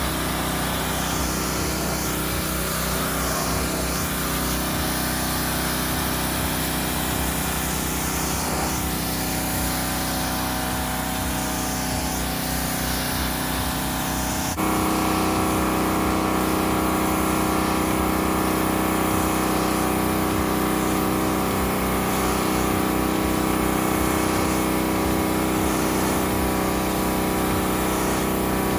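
Pressure washer running steadily, its motor and pump humming under the hiss of the water jet. About halfway through the sound shifts abruptly and gets a little louder.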